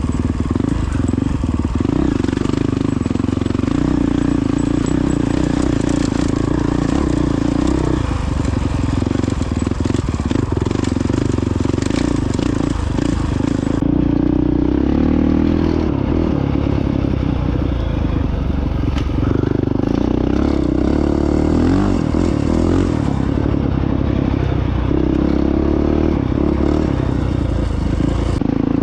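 Honda CRF450X dirt bike's single-cylinder four-stroke engine running under way off-road, its note rising and falling with the throttle.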